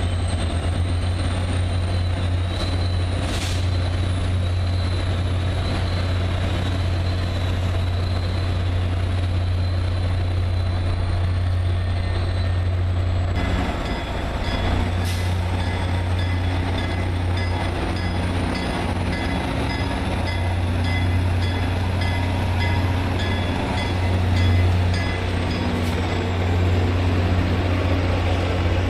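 A train at a station running with a loud, steady, deep engine drone. A few short clicks sound over it, and the sound changes abruptly about 13 seconds in.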